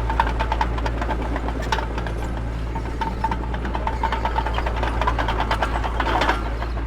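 Mini bulldozer's diesel engine running steadily under a dense, rapid metallic clatter, with an on-and-off squeal and a louder surge about six seconds in.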